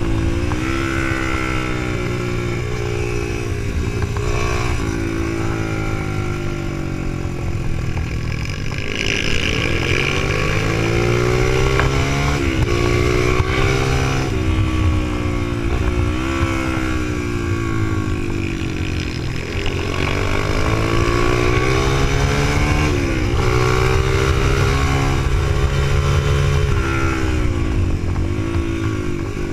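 Supermoto motorcycle engine under hard riding, the revs climbing and dropping again and again as the bike accelerates, shifts and slows for corners.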